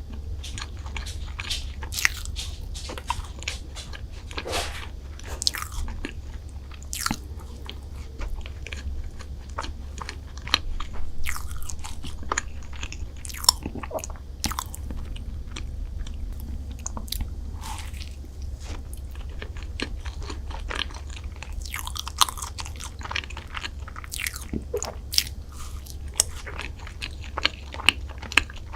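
Close-miked biting and chewing of chocolate desserts, with irregular crisp crunches and clicks scattered throughout over a steady low hum.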